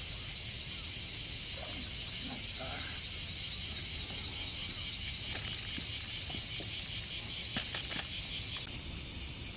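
A high-pitched, rapidly pulsing insect chorus over a steady low rumble, getting stronger near the end, with a few faint chirps and light clicks.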